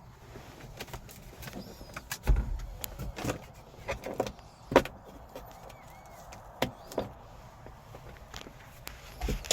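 Irregular clicks and knocks of a car's door and interior trim being handled, with a heavier thump about two seconds in.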